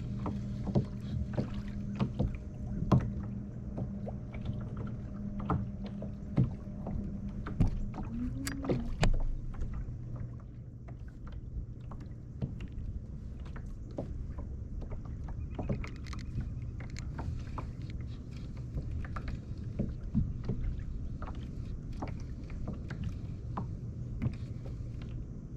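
Scattered knocks and clicks of handling and gear on a fishing kayak, over a low steady hum that fades about nine seconds in.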